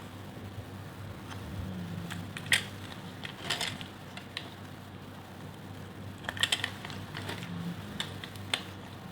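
A knife cutting into dry bar soap, making crisp cracks and crunches. There is a sharp crack a couple of seconds in, a crunchy cluster a second later, another cluster past the middle and a last click near the end, over a faint low hum.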